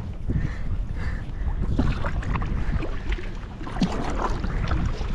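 Kayak paddling on open water: irregular splashes of paddle blades dipping and dripping, over a steady low rumble of wind on the microphone.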